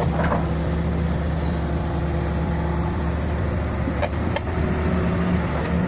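Truck engine running steadily at a low idle-like drone, with two faint clicks about four seconds in.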